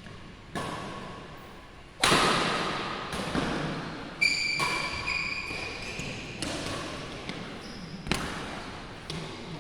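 Badminton rally: a string of sharp racket strikes on the shuttlecock, about six in all, the loudest about two seconds in, echoing in a sports hall. Shoes squeak on the court floor from about four seconds in.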